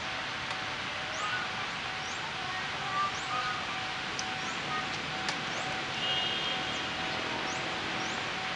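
Small birds chirping with short, high, rising notes about once or twice a second, and a brief trill about six seconds in, over a steady background hiss and a faint steady hum.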